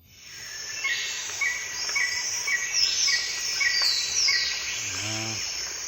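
Tropical forest ambience fading in: a dense shrill chorus of insects, with a bird giving short chirps about twice a second and a few higher sweeping calls.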